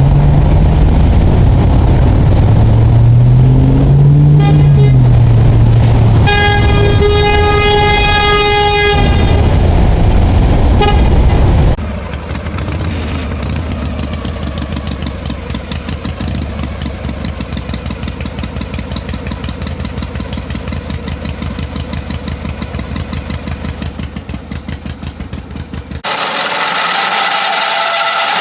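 Vehicle horn tooting several times, once held for a few seconds, over a motor that rises and falls in pitch. About twelve seconds in, it cuts to a quieter fast, even mechanical rattle.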